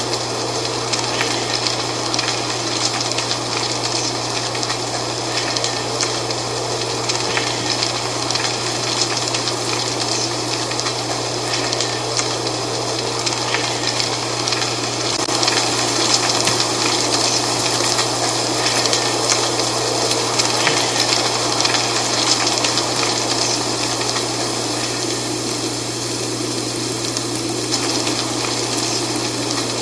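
Dry autumn leaves rustling steadily in the wind, a continuous hiss full of fine crackles that swells slightly around the middle.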